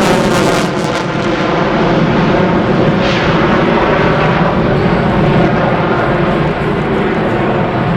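Loud, continuous engine noise from a military aircraft flying past, its pitch slowly shifting as it moves.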